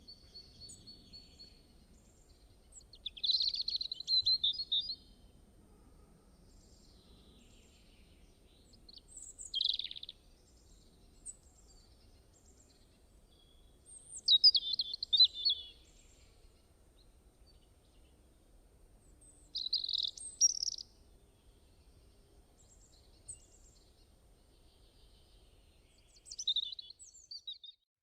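Wild birds singing in short chirping phrases, about five bursts a few seconds apart, over faint outdoor background noise.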